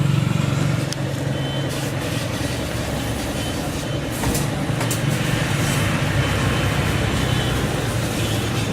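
Mini refrigerator's compressor running steadily after its refrigerant recharge, giving a low, even hum with a few faint ticks.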